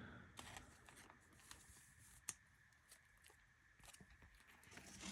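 Near silence, with a few faint clicks and light rustling from trading cards being handled and put away, one sharper tick a little past the middle.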